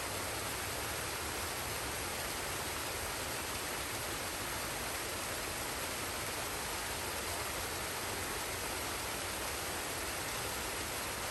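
Forest waterfall and stream: a steady, even rush of falling water with no distinct splashes or breaks.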